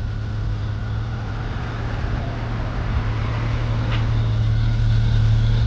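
Car engine running with a deep, steady low rumble that grows louder as the car approaches.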